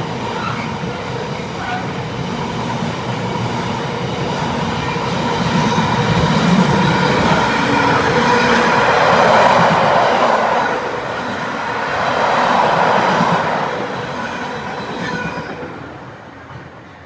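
A train passing through a station: a heavy rumble of wheels on rail with a steady tone running over it. It grows louder through the middle and fades away near the end.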